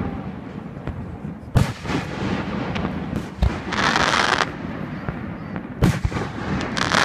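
Aerial firework shells bursting: sharp booms about a second and a half in and again near six seconds, with a lower thud between them. Just before the four-second mark a glittering shell gives a short spell of dense hissing crackle.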